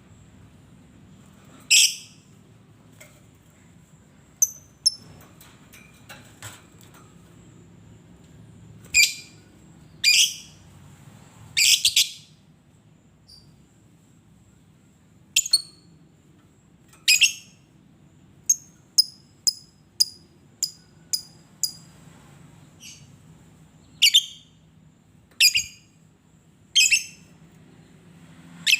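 Lovebird calling: short, shrill calls at irregular intervals, with a quick run of thinner, higher chirps about two a second roughly two-thirds of the way through.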